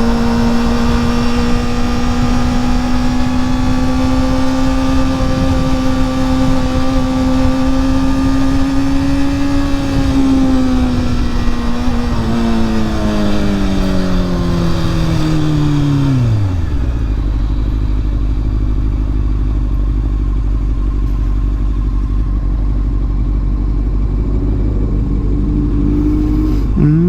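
Motorcycle engine under way, wind buffeting the rider's microphone. It holds a steady, slowly climbing note, winds down over several seconds as the bike slows, settles into a low rumble, and near the end starts to climb again as it pulls away.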